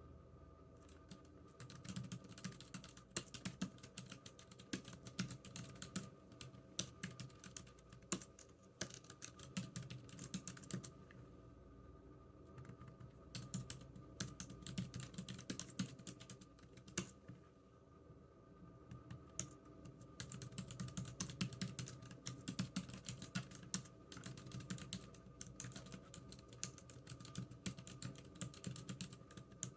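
Typing on a computer keyboard: fast runs of key clicks, with a couple of brief pauses of a second or two.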